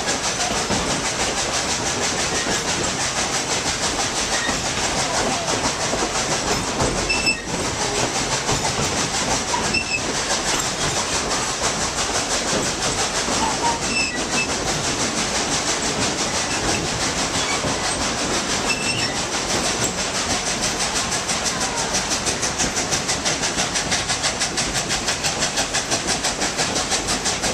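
Narrow-gauge steam train behind a Baldwin 2-8-2 locomotive, heard from aboard: a steady, noisy rumble of the train rolling along the track. In the last several seconds it settles into a fast, even pulsing.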